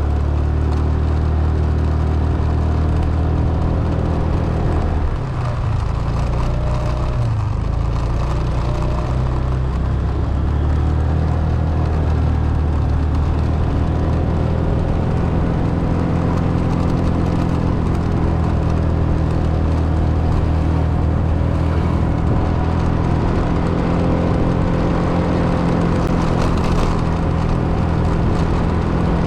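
A motor vehicle's engine and road noise heard while driving, a steady low hum whose pitch dips and shifts about five to eight seconds in, as at a gear change or a change of speed, then settles again.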